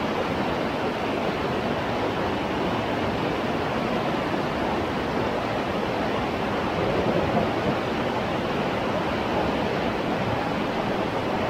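Steady rush of river water running through rapids.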